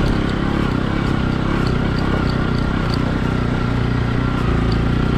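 Motorcycle engine running steadily while riding along a rough track, with faint light ticks over it.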